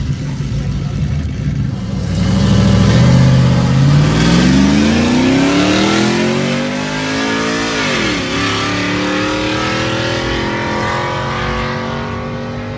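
A drag-racing truck's engine accelerating hard down the strip, loudest a few seconds in, its pitch climbing steadily. About eight seconds in the pitch drops sharply at a gear shift, then climbs again as the engine fades away.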